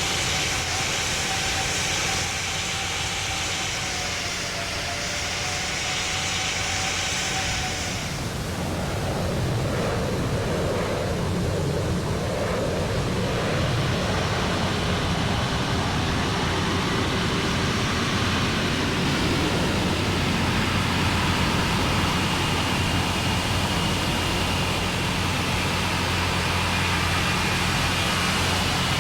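Jet airliner engines running: a steady rushing noise with faint whining tones that slowly slide up and down in pitch. The sound shifts about eight seconds in.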